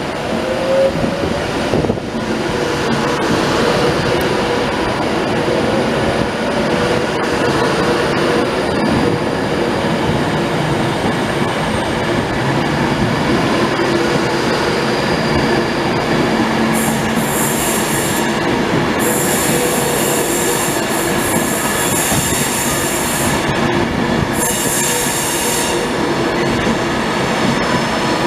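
A train running past at close range with a steady rumble, and high-pitched wheel squeal in three stretches in the second half.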